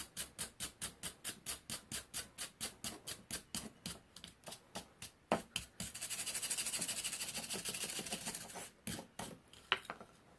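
Wire brush scrubbed back and forth over a hot, freshly twisted forged steel spike, at about five strokes a second. Near the middle it turns into a few seconds of faster, continuous scrubbing, then a few last strokes and a sharp click near the end.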